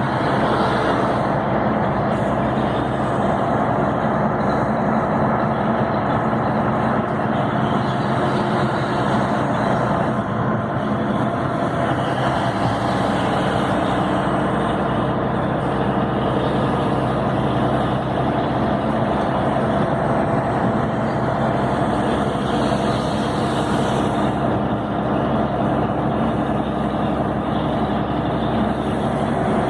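Scania 112 truck's six-cylinder diesel engine running steadily at cruise on the highway, with road noise. Its engine note stays even, with no gear changes or revving.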